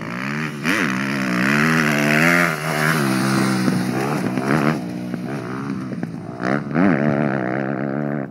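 Motocross dirt bike engine revving up and down as it rides, with quick throttle blips about a second in and near the end.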